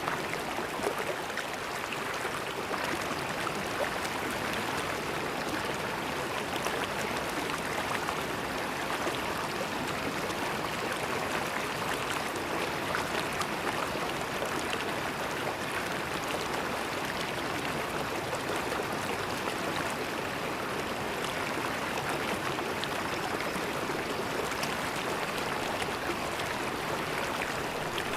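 River water flowing and gurgling over rocks, a steady rushing with fine splashing detail.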